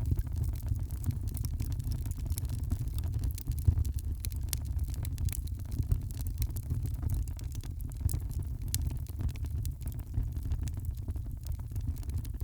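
Wood fire burning in a fireplace: irregular crackles and small pops over a steady low rumble, with one sharper pop a little under four seconds in.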